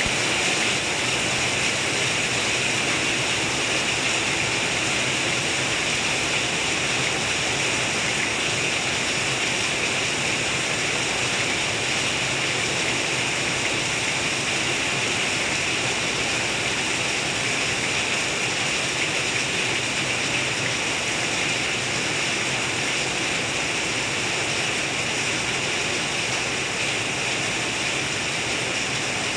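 Heavy rain pouring off a roof's edge in many streams and splashing below: a steady, even rush of water that doesn't let up.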